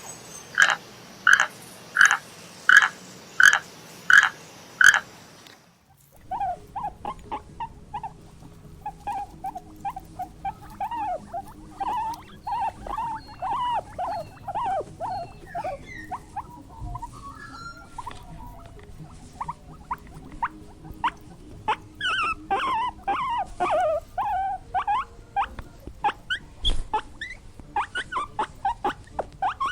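A frog croaking in an even series, about eight croaks at roughly 0.7-second spacing. After an abrupt cut, a small animal gives rapid high squeaks and whimpers that come thicker near the end.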